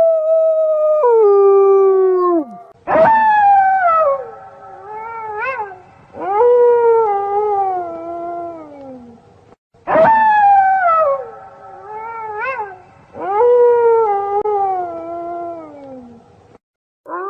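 Wolves howling: long calls that start high and slide down in pitch, broken by short rising yips. The same sequence of howls plays twice, about 7 seconds apart.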